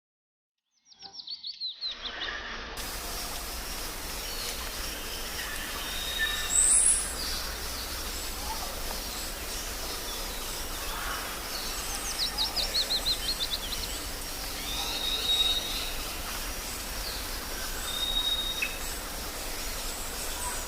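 Birds calling over steady outdoor background noise. Twice a rapid series of short, falling high notes, and a short high whistle repeated several times. The sound starts from silence about a second in.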